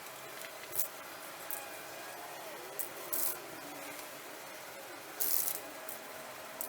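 Short hisses of spray paint going onto a motorcycle exhaust pipe during its third coat: about five brief bursts, the longest about five seconds in.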